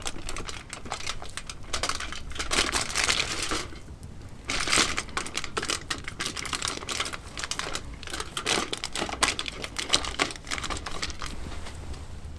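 Dense crinkling and clicking handling noises from rolling up a raw bacon-wrapped sausage and cheese log by hand.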